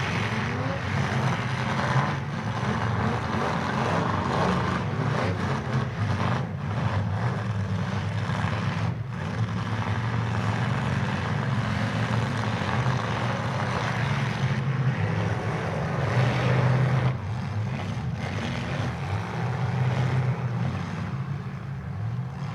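Demolition derby cars' engines running hard in the arena, a steady loud low drone of several motors being pushed.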